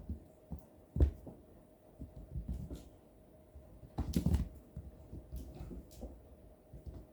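Soft thumps and knocks of kittens playing and pouncing on the floor: one sharp thump about a second in and a busier scramble around four seconds in, with light scuffling between and a faint steady hum underneath.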